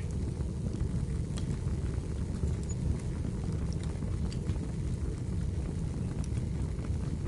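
Wood fire burning in a fireplace: a steady low rumble of flames with scattered faint crackles of the firewood.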